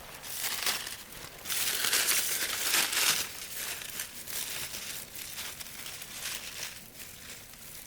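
Footsteps crunching through dry leaves and brush, an irregular rustling crunch that is loudest in the first half and fades toward the end.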